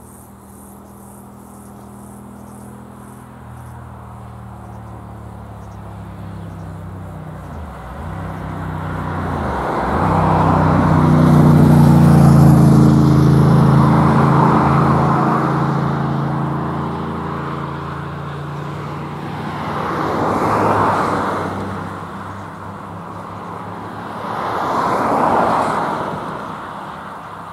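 A train passing out of view at a level crossing, its running noise rising to a loud peak about twelve seconds in and then fading, with two more swells near the end. A fast-striking crossing warning bell rings at the start.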